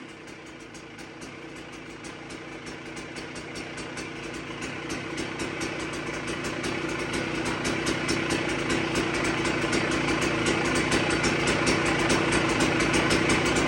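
KTM dirt bike engine with a full FMF exhaust idling, its top end freshly rebuilt and the carburettor still being dialled in; the steady idle grows gradually louder.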